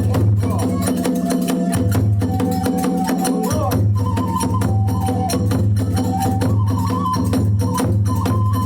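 Kagura hayashi music: a drum beating steadily under rapid, constant clashing of small hand cymbals, with a transverse flute holding and stepping through a melody line.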